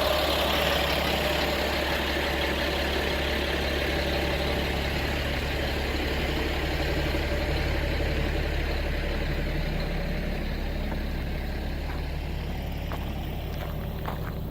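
Freightliner M2 grain truck's diesel engine idling steadily, with a hiss that slowly fades over the course of the idle.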